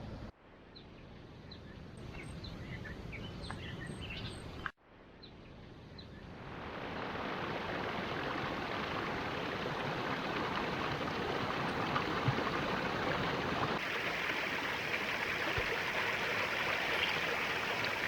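A few short bird chirps over a faint hiss, then a steady rush of flowing water that swells over a couple of seconds and holds.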